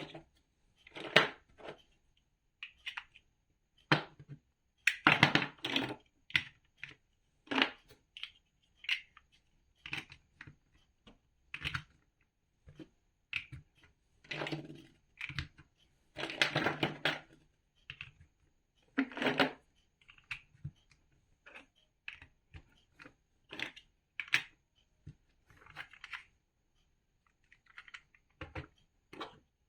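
Large plastic toy building bricks being handled and pressed together: irregular clicks and short plastic rattles, with brief pauses between them.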